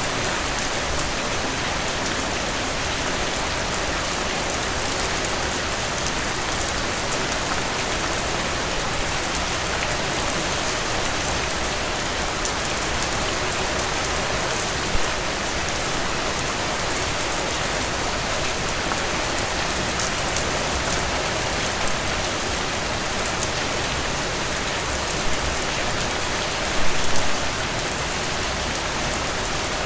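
Steady rainfall: an even hiss of many drops falling on surfaces, with brief louder spatters about halfway through and again near the end.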